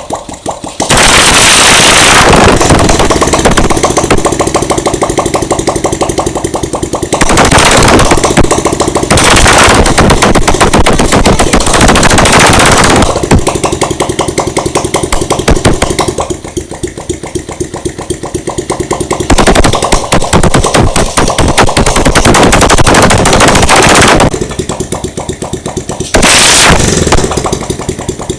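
Motorcycle engine running loud after standing unused for four years, its exhaust a rapid string of firing pulses, revved up in several surges.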